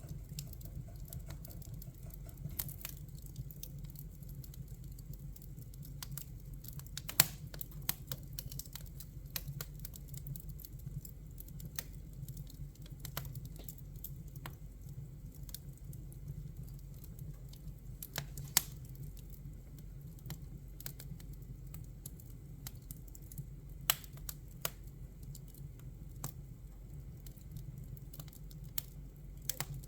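Wood fire crackling: irregular snaps and pops over a steady low rumble, with a few sharp, louder pops scattered through.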